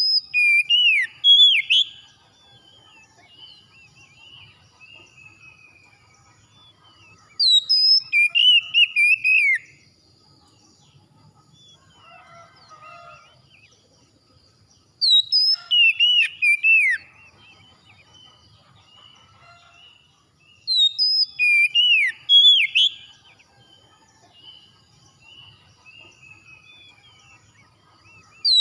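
Songbird singing loud, sharp whistled phrases. Each phrase lasts about two seconds and comes back about every seven seconds, four times, with fainter twittering between the phrases.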